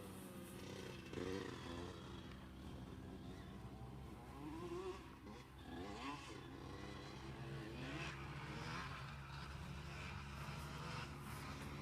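Motocross bikes riding the track some way off, their engines revving up and dropping back several times; faint.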